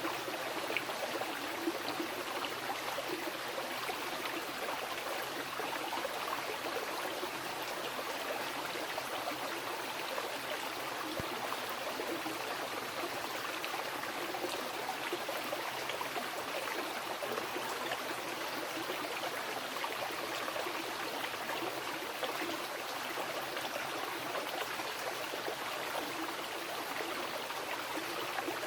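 Mountain river rushing steadily over rocks, a constant even rush of water with no breaks.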